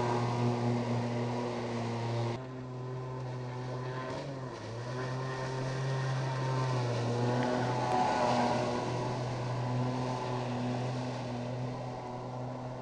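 Four-stroke engine of a small jet-drive tender running under way with a steady hum; the level drops abruptly about two seconds in, and the pitch dips briefly a couple of seconds later.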